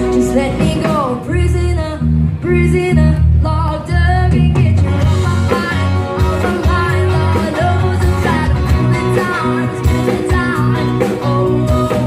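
Live band music with a lead singer: a sung melody with vibrato over a steady, loud backing of bass notes and guitar.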